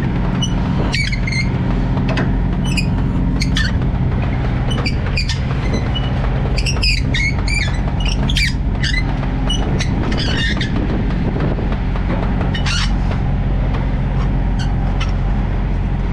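Freightliner semi truck's diesel engine running steadily, with scattered short clicks over it.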